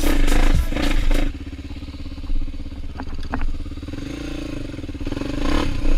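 Dirt bike engine running on a trail, loud and clattery at first, then dropping suddenly to a steady low-rev drone a little over a second in, with a few light knocks. It picks up again near the end.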